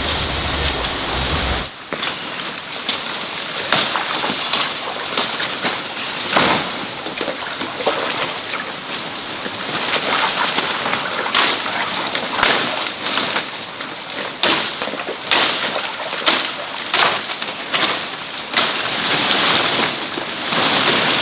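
Water splashing and sloshing irregularly over a steady hiss, with many short splashes at no set rhythm.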